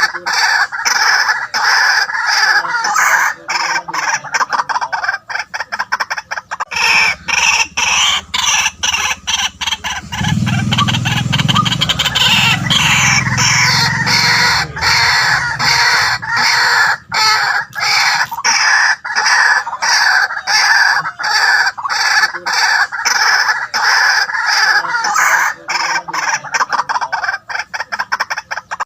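White-breasted waterhens calling: a continuous run of loud, harsh notes repeated many times a second. A lower-pitched sound joins from about ten to sixteen seconds in.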